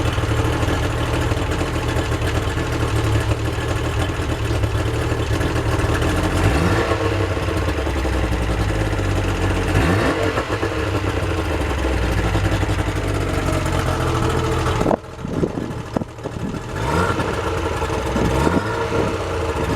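Yamaha outboard motor running on flush muffs and held at raised revs for about fifteen seconds. The revs then drop suddenly, followed by a few short throttle blips before it settles back to running.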